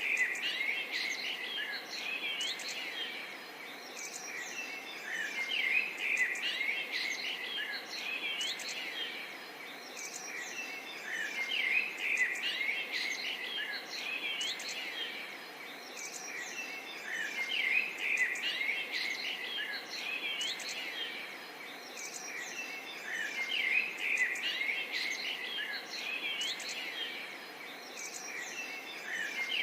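A chorus of birds chirping and whistling together: many short calls and quick rising and falling whistles overlapping, over a faint steady hiss. The chorus swells and eases about every six seconds.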